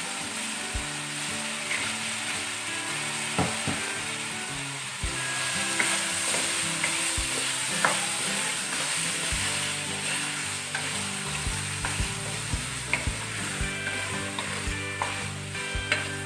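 Potato cubes sizzling in hot oil and spice masala in a metal pan, stirred with a wooden spoon that knocks against the pan every second or two.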